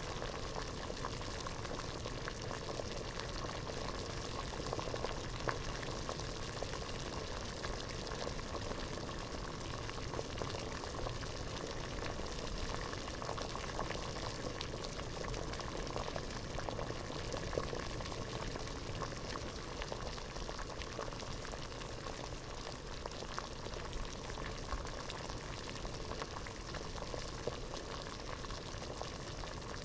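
Water boiling in a pot, a steady rolling bubble and pop with no break or change.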